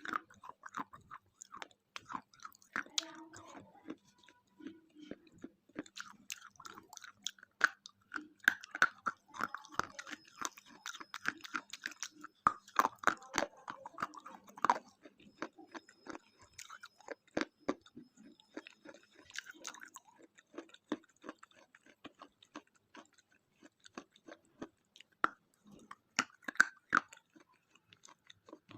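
Close-miked biting and chewing of a thick KitKat chocolate wafer bar, with many sharp crunches of the wafer and denser runs of crunching in places.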